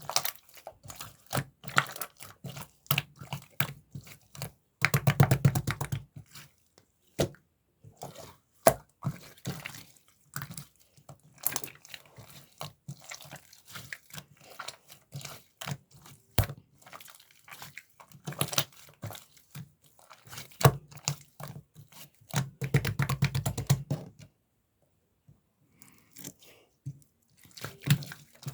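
Mint-chocolate slime being squished and stretched by hand, giving irregular wet clicks and small pops, with two runs of rapid crackling, about five seconds in and again near the end.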